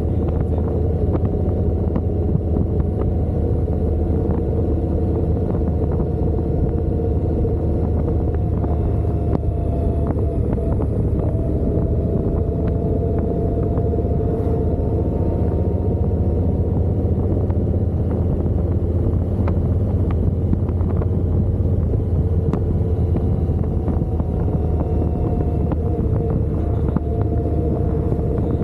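Motorcycle running steadily at a constant speed, its engine note holding nearly level throughout.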